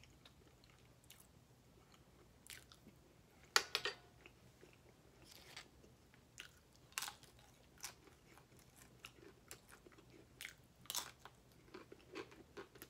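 Chewing crispy bacon close to the microphone: a run of sharp, short crunches every second or so, the loudest about three and a half seconds in.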